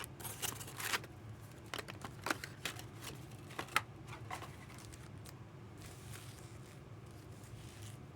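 Trading cards and packs being handled: sharp clicks and short rustles of card stock and wrappers, mostly in the first half, then quieter.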